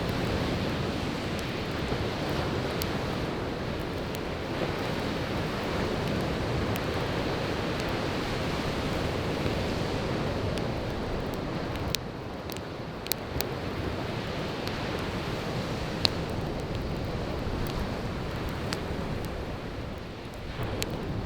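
Surf washing onto a beach in a steady rush that eases off a little twice, with scattered sharp pops and crackles of burning firewood, the loudest snap a little past the middle.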